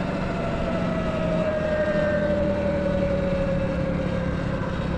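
Motorbike running while being ridden, with a steady low hum and a whine that slowly drops in pitch.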